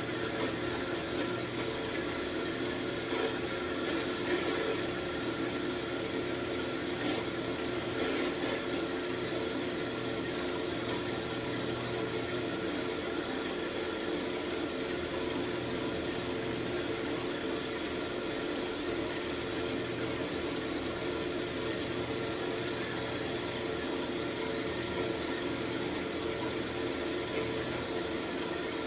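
Wood lathe running steadily with a walnut wand spinning on it, a constant motor hum under an even hiss.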